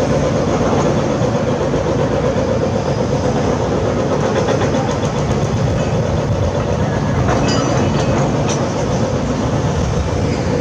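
Heavy construction machinery working: a loud, steady diesel drone with rattling and clanking, and a few sharper metallic clicks about seven to eight seconds in.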